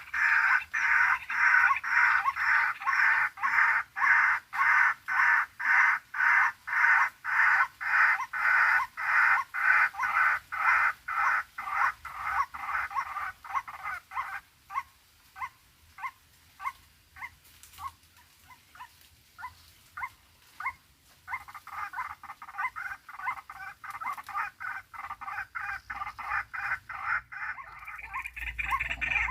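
White-breasted waterhen (ruak-ruak) calling: a loud, rapid series of repeated croaking notes, about two a second. It thins to fainter, sparser notes around the middle, then comes back at full strength.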